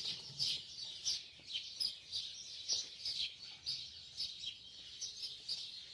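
Small birds chirping, a dense run of short, high chirps several times a second.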